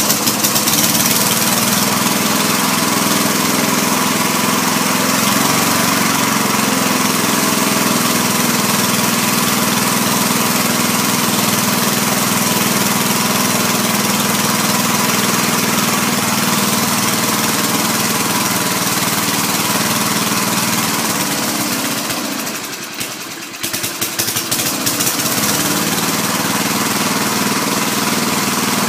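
Old lawn mower's small engine running steadily, just started after its carburetor adjustment screw was turned an eighth of a turn. About two-thirds of the way in it sags and stumbles briefly, then picks back up and keeps running.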